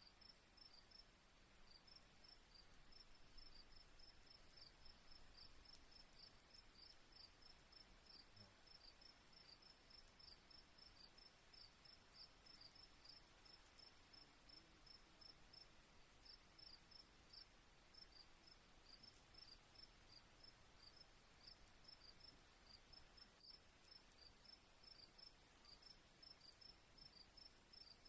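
Faint crickets chirping: short, quick chirps in uneven runs over a steady high-pitched drone.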